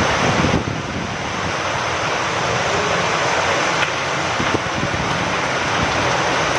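Steady rain with wind, a dense even hiss with a few faint drip clicks, dipping briefly about half a second in.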